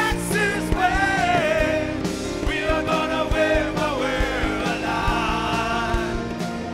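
Rock song with a singer, sung over a band with a steady drum beat.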